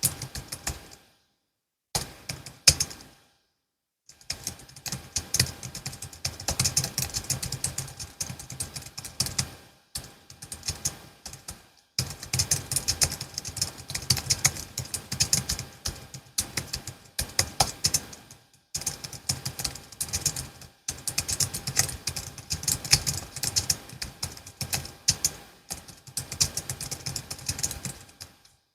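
Typing on a Logitech MX Keys S low-profile scissor-switch keyboard: quick runs of key clicks in bursts, broken by short pauses, with two silent gaps in the first few seconds.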